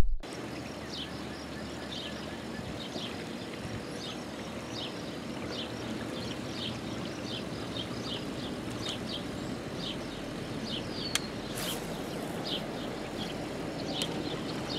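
Outdoor pond-side ambience: a steady background hiss with a bird calling over and over in short high chirps, one or two a second. A brief hiss about three-quarters of the way through.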